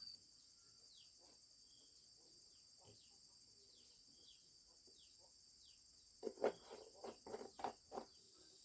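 Quiet outdoor ambience: a steady high insect drone with a few short falling bird chirps, then a quick run of knocks or taps from about six to eight seconds in, the loudest part.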